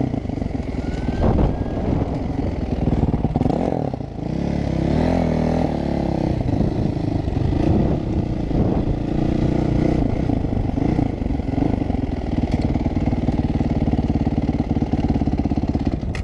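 Motorcycle engine running under load, its pitch rising and falling with throttle and gear changes, then holding fairly steady for the last few seconds.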